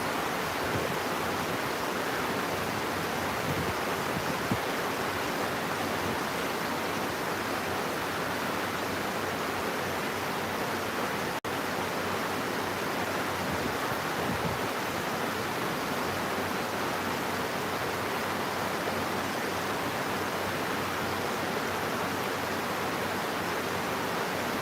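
Steady, even rainfall hiss, with a momentary break about eleven seconds in.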